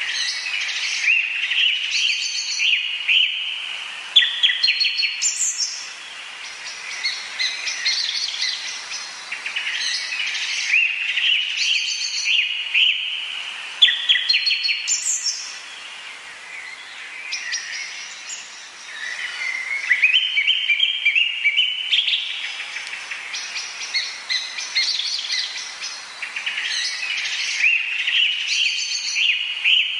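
Birds singing and calling in a dense, overlapping chorus of repeated chirping phrases. A couple of sharp upward-sweeping notes cut through, about five and fifteen seconds in.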